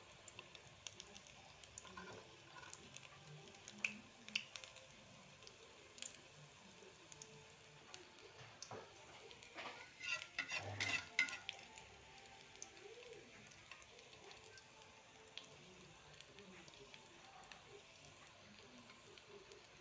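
Pieces of food shallow-frying in oil in a wok: a faint steady sizzle with scattered pops and crackles. About ten seconds in comes a short cluster of louder clicks and scrapes as a metal spatula works against the pan.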